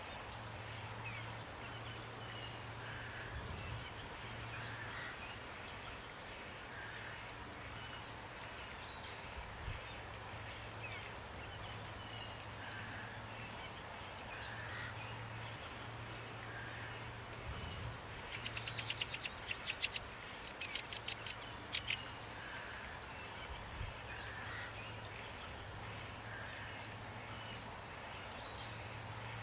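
Songbirds chirping over a steady hiss of light rain: many quick high notes that drop in pitch, and softer lower notes that repeat every couple of seconds. A louder, fast rattling trill comes in for a few seconds past the middle. A low hum sits underneath.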